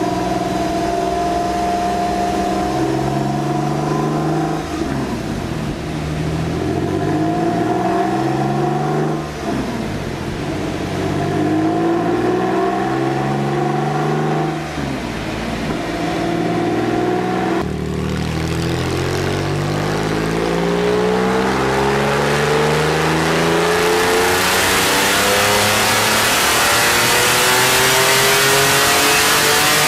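Porsche 911 (996) 3.4-litre flat-six at full throttle on a chassis dynamometer for a power run. The engine revs up and shifts four times in the first 18 seconds, then pulls in one long, steady climb in revs, with a rush of noise building over the last few seconds.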